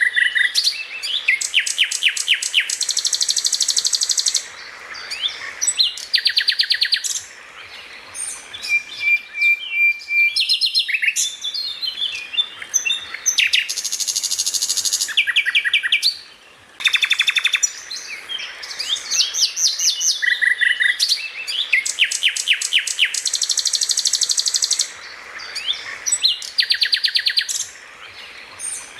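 Songbird song: a run of rapid, high-pitched repeated-note trills, chirps and short whistled notes with brief pauses between phrases. The same sequence of phrases comes round again part way through, as in a looped training recording.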